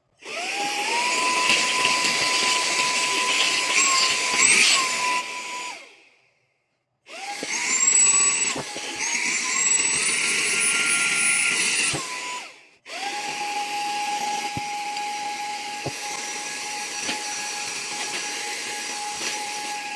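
Mini handheld vacuum cleaner motor running in suction mode with a high, steady whine, three times with short silent breaks between; in the middle run the pitch steps up twice as the load changes.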